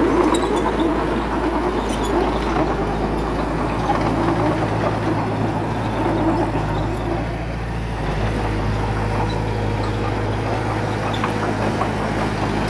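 Heavy diesel engine of earthmoving machinery running steadily, its pitch shifting slightly a few times, with faint scattered clicks over it.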